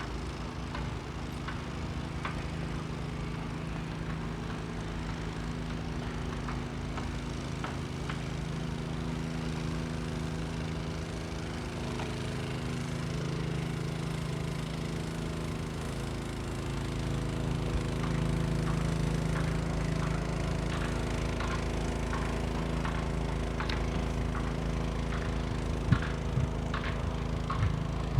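A steady engine hum that grows a little louder about two-thirds of the way in, with scattered light ticks over it.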